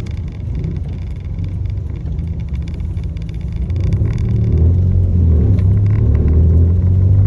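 Low, steady vehicle rumble that grows louder about four seconds in.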